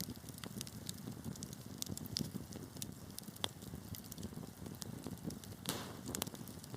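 Wood fire burning in a fireplace, with a steady low rumble and many sharp crackles and pops. Near the end there is a brief hiss.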